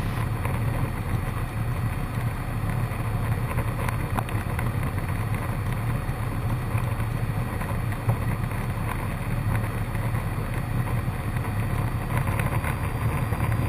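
Cessna 152's four-cylinder Lycoming engine and propeller droning steadily in flight, heard from inside the cabin, with a faint steady high whine over it.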